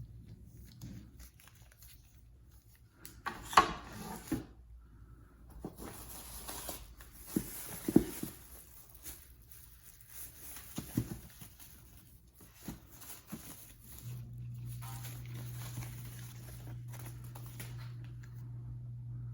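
Cardboard and plastic packaging being handled: rustling and crinkling with scattered knocks, the loudest about three and a half and eight seconds in. About two-thirds of the way through the handling stops and a steady low hum carries on.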